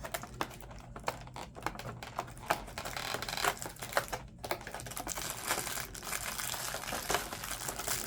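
A small advent-calendar box being opened and handled by hand: irregular clicks and taps of cardboard and packaging, turning into a steadier rustle from about five seconds in.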